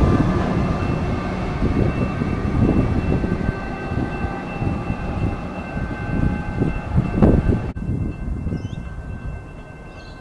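Comeng electric suburban train pulling out and running away along the track, its rumble fading. The sound drops suddenly about three-quarters of the way through, leaving a much quieter background. A steady high ringing runs underneath throughout.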